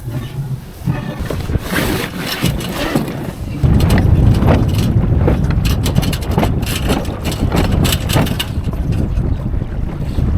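Wind buffeting the microphone and water splashing and rushing along the hull of a small sailing dinghy under way. The wind rumble gets much louder about four seconds in.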